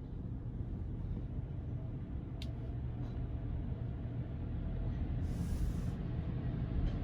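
Low, steady rumble of automatic car wash machinery heard from inside the car's cabin, with a single click about two seconds in and a short hiss about five seconds in.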